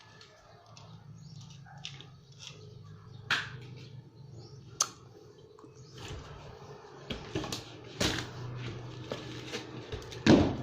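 Irregular sharp knocks and clicks over a steady low hum, busier in the second half, with one loud knock near the end.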